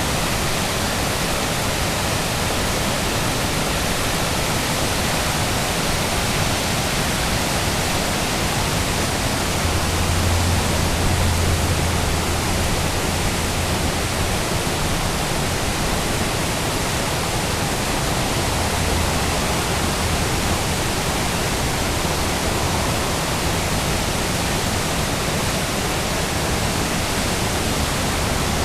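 A river in flood, its fast water rushing as a steady, even noise. A low rumble swells for a few seconds about ten seconds in.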